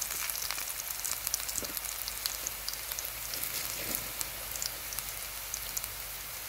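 Sliced onion, garlic and dried red chillies sizzling in hot oil in a pan, the tempering (baghar) for masoor dal: a steady hiss with scattered small crackles and pops.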